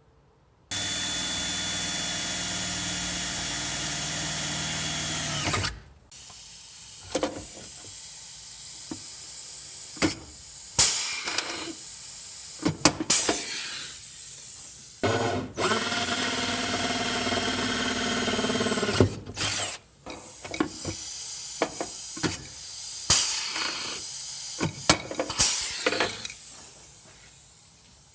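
Electric drill boring holes for steel blind rivets, running in a steady whine for about five seconds, then in shorter bursts broken by sharp clicks and knocks, before it stops near the end.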